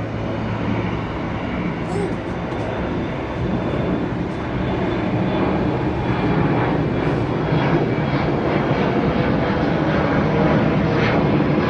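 Boeing 747's jet engines running, a steady rumble that grows slowly louder.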